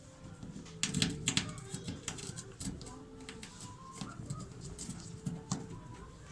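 A run of sharp clicks and light knocks, loudest about a second in, from washing machine cabinet parts and screws being handled and fitted during reassembly.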